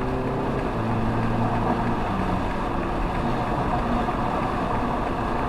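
Car engine pulling under acceleration, heard from inside the cabin over a steady rush of road and wind noise; the engine's tone rises slightly at first, then fades into the road noise after about two seconds.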